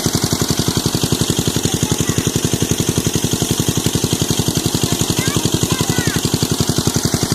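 A small engine running steadily at idle-like speed with a fast, even chugging beat.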